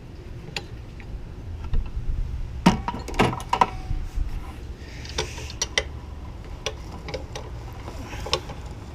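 Irregular metal clicks and clinks of a socket wrench working a fastener on the engine, with a cluster of clicks about three seconds in, over a steady low hum.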